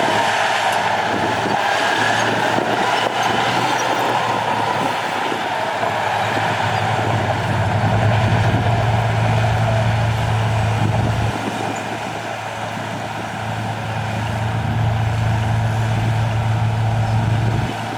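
Heavy diesel engine of an earthmoving machine running steadily under load. Its low drone eases off about eleven seconds in and picks up again a couple of seconds later.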